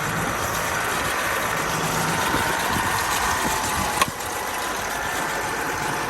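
Kubota tractor's diesel engine running steadily at idle, with a single sharp click about four seconds in.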